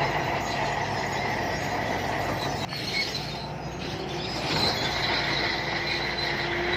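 Shantui crawler bulldozer working: a steady diesel engine rumble under the high squealing of its steel tracks. A lower squeal joins in near the end.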